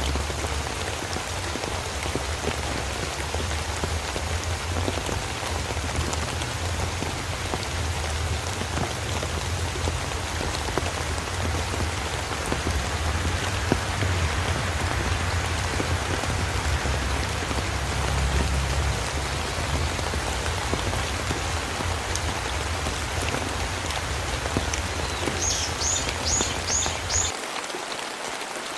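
Steady rain falling in a forest, an even hiss of drops with fine individual patters, over a low rumble that stops near the end. Just before that, five quick high chirps sound in a row.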